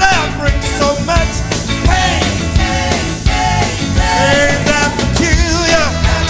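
Live band playing an upbeat soul number: a lead melody that slides and wavers in pitch over a steady bass and drum beat.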